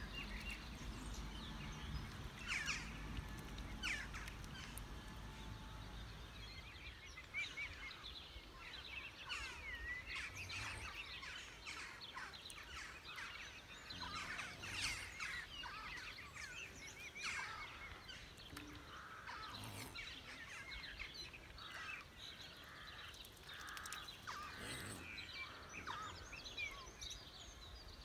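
Birds chirping and calling: many short chirps and quick rising and falling whistles, faint, over a low background rumble that fades over the first several seconds.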